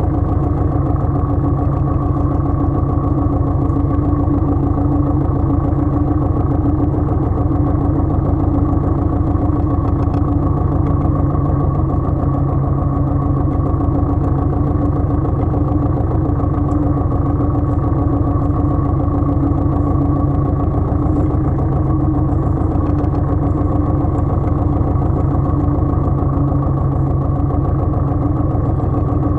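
Engine of a Pasquali 980 EX compact tractor running steadily at an even speed, with a fast, regular low beat.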